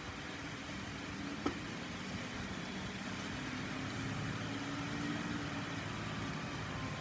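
Steady hiss of rain falling on a wet parking lot, with the low hum of a vehicle engine passing by that swells in the middle. A single sharp click about a second and a half in.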